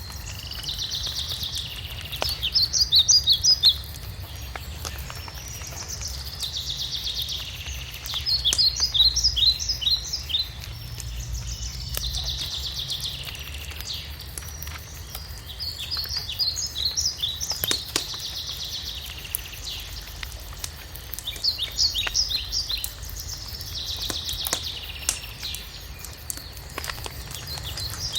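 A songbird sings the same short phrase about every seven seconds, four times in all: a quick trill, then a run of rapid high notes. Under it a wood fire crackles with occasional sharp pops.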